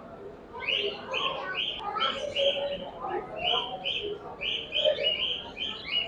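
Caged show birds chirping in a steady string of short, high calls, about two to three a second.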